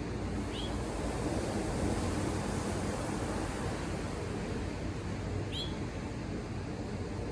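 Ocean surf washing steadily below, swelling about a second in and easing off again. Two short high chirps cut through, one near the start and one about five and a half seconds in.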